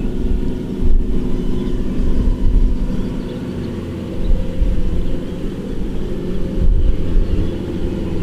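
Kubota DC-105X combine harvester's diesel engine running steadily, a continuous low drone that swells and eases slightly.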